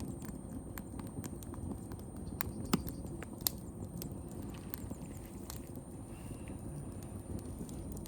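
Wood campfire burning: a low steady rush with scattered sharp crackles and pops, a few louder pops about two and a half to three and a half seconds in.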